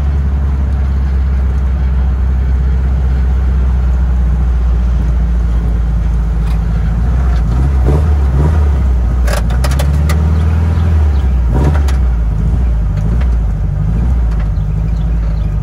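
Engine of a 1969 Barris Mini T, a VW-based kit car, running with a steady low drone. A few short clicks come past the middle.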